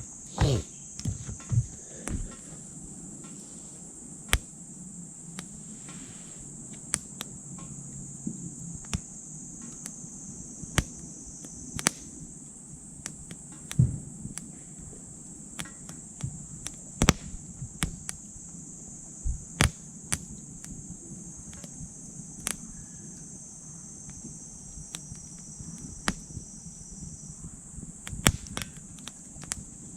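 Small wood fire in a titanium wood stove crackling with irregular sharp pops, with a few louder knocks in the first two seconds. A steady high-pitched insect chorus sounds behind it.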